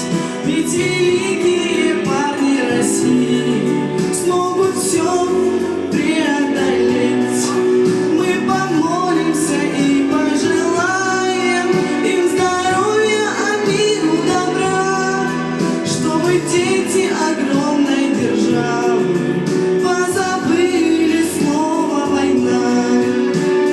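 A song performed with a singer's voice over an instrumental backing track, the melody held in long sung notes.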